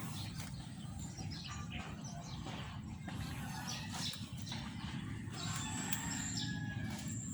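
Birds chirping over a steady low rumble, with a thin high whine setting in about five seconds in.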